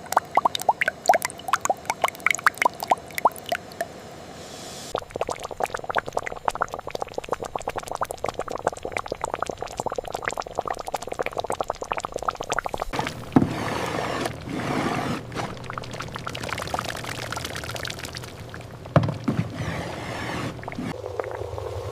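Liquid pouring and splashing, with dense trains of small drips and clicks that change in character several times. There are sharp knocks about 13 seconds in and again about 19 seconds in.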